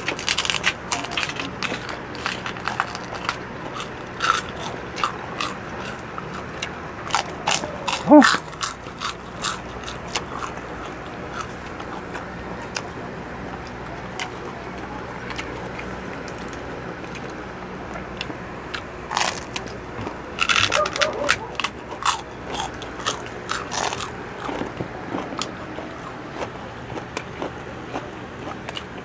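Close-up crunching and chewing of crispy pork chicharon: loud, brittle crackling bites that come in irregular clusters, with the loudest crunch about eight seconds in.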